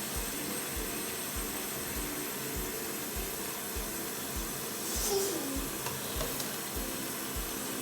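Water running steadily into a container as it is filled, a continuous hiss with a faint low throb a few times a second.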